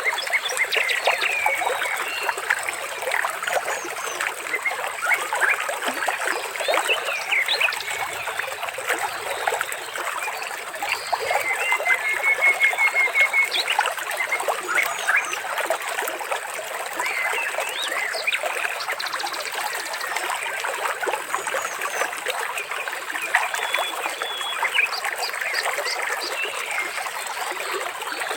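Trickling water with many birds calling and chirping over it, including a quick trill about halfway through.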